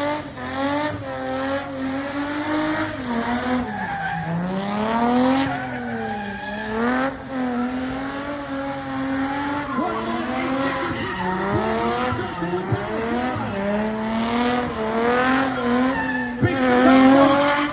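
Spinning car's engine held at high revs, the pitch wavering up and down and dipping briefly twice, with the tyres squealing as the car spins and slides in circles.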